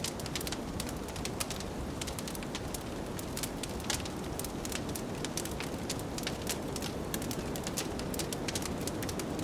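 Wood fire crackling with frequent, irregular sharp pops, over a steady low rumble of wind.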